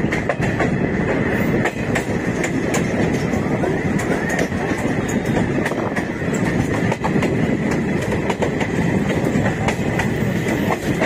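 Bagh Express passenger train running on the rails, heard from inside the coach at an open barred window: a steady rumble of wheels on track with irregular clickety-clack clicks over rail joints.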